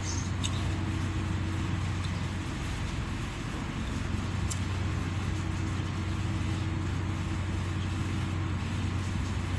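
Steady low machine hum over a constant noise, with a few faint clicks.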